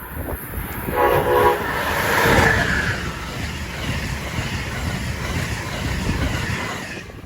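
A passenger train sounding a short horn blast, about half a second long, about a second in, then rushing past at speed with wheels clattering over the rails.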